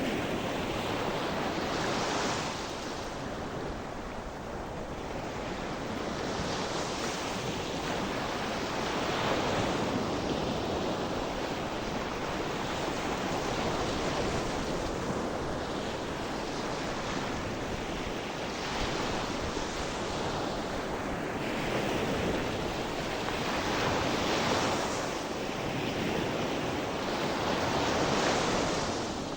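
Ocean surf: gentle waves breaking and washing in continuously, each swell rising and falling every few seconds.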